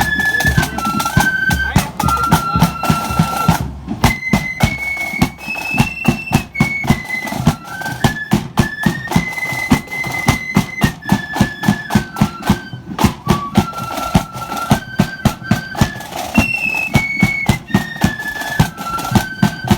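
Marching flute band playing a tune: flutes carry a melody in unison over an even beat of drums, with a short break in the melody about four seconds in.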